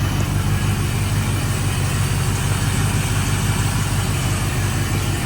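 Volvo Penta 5.7 GI marine V8 engine idling steadily in its warm-up after a cold start.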